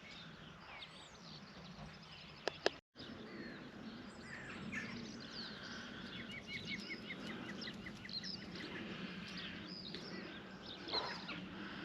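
Several small songbirds calling and singing, with a quick run of about a dozen repeated notes a little past the middle, over a low steady background hum.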